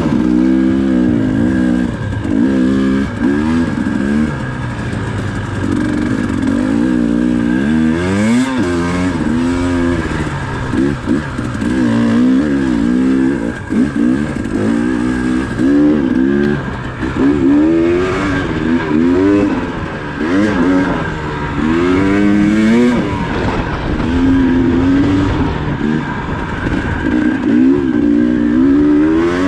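Dirt bike engine being ridden, its revs rising and falling again and again every second or two as the throttle is worked.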